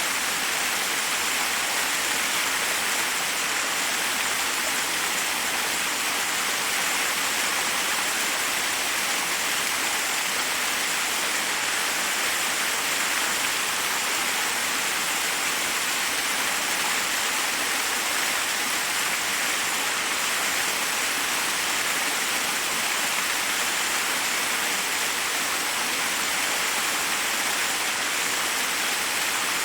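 Forest waterfall: water rushing and splashing over rocks in a steady, unbroken hiss.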